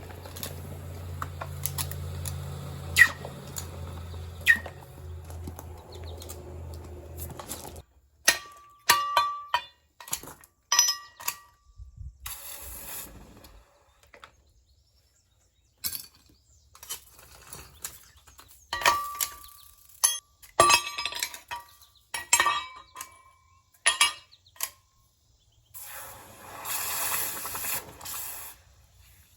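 Pieces of metal clinking and knocking together, with short ringing strikes in several clusters separated by pauses. A steady low hum runs for about the first eight seconds, then stops abruptly.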